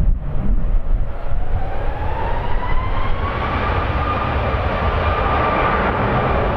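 Airbus A350-900's Rolls-Royce Trent XWB jet engines at takeoff thrust: a deep rumble under a whine that rises in pitch over the first few seconds, then holds steady.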